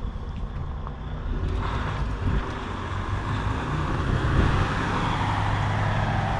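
Semi-truck diesel engine running steadily, a low hum, with a rushing noise setting in about a second and a half in and growing louder.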